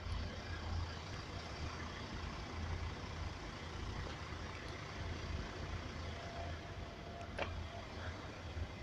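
Road traffic at a level crossing: a steady low rumble of vehicle engines and tyres, with a brief sharp click about seven seconds in.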